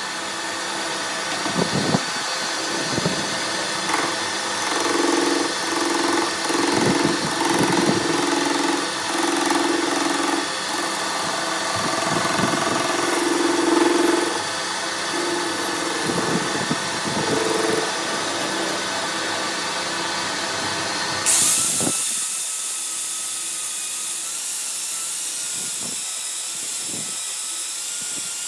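Metalworking machinery running steadily, changing abruptly about 21 seconds in to a brighter hissing sound with a thin wavering whine.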